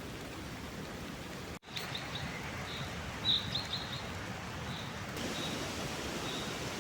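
Spring forest ambience: a steady rustling background with short, high bird chirps, a quick run of them about halfway through and single ones after. The sound drops out for an instant about a second and a half in.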